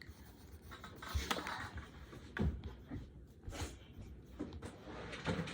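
Coloured pencil scratching and tapping on paper while drawing, with a few short, sharper knocks spread through.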